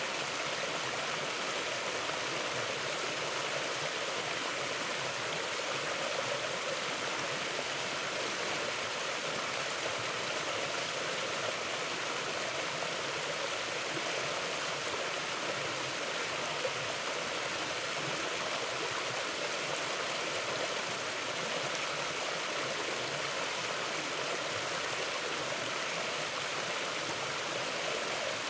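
Steady rushing of a forest stream flowing over rocks, an even wash of water noise without breaks.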